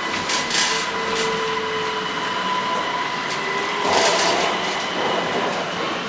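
Metro train running through the station: a steady electric whine over rumble and hiss, with two short bursts of high hiss about half a second and four seconds in.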